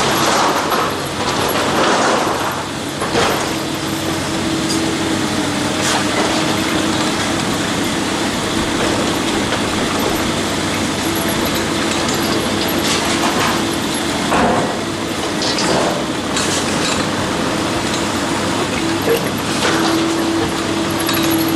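Heavy demolition machine at work: a diesel engine running steadily, a hydraulic whine that comes and goes, and scattered sharp cracks and crunches of material being broken.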